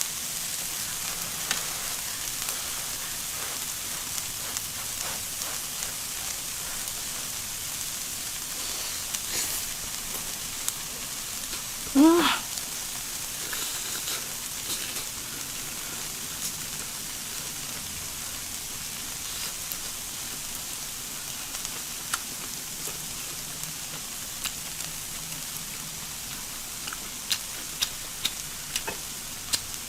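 Shrimp and vegetables sizzling on an electric grill: a steady frying hiss with scattered small pops and crackles. About twelve seconds in there is a brief, loud vocal sound.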